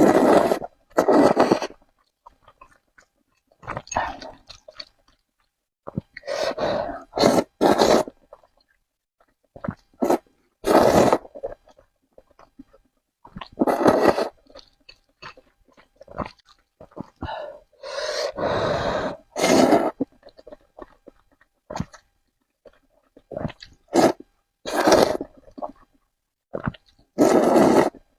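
Close-miked eating of spicy noodles: chewing and mouth sounds in about a dozen short bursts, with silent gaps between them.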